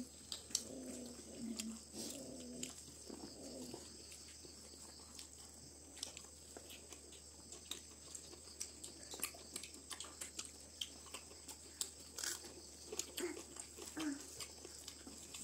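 People eating rice by hand: chewing and lip smacks heard as many small, sharp mouth clicks, with a few low murmurs in the first few seconds and again near the end, over a steady high hiss.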